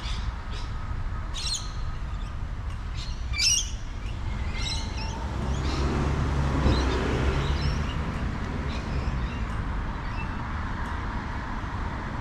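Birds squawking and chirping in short harsh calls, most of them in the first few seconds, over a steady low rumble of wind and tyres from the moving bike. A louder low rumble swells midway and fades again.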